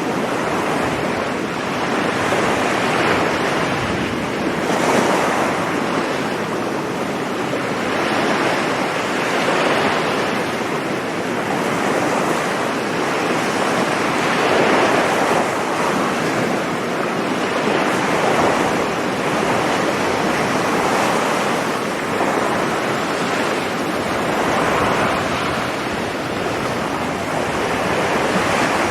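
Ocean surf breaking on a sandy beach, a continuous wash of waves that swells and eases every few seconds, with some wind on the microphone.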